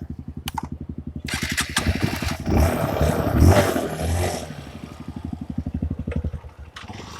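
Honda CRF150 dirt bike's single-cylinder four-stroke engine putting along at low revs, pulling harder for about three seconds with a rush of splashing water over it as the bike goes through a river crossing, then settling back to low revs.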